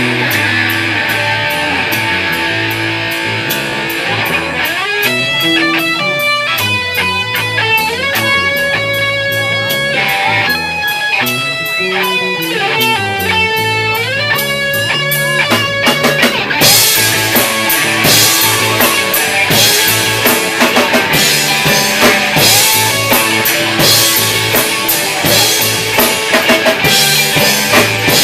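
Instrumental break of a live rock song: electric guitar playing melodic lead lines over a drum kit keeping steady time on the cymbals. About 17 seconds in the drums come in harder with crashing cymbals and the band gets louder.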